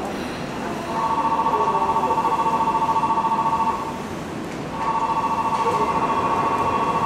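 Station departure buzzer sounding a steady, rapidly pulsing two-tone note in long bursts: one about a second in that stops near the four-second mark, and another starting about a second later, signalling that the doors are about to close.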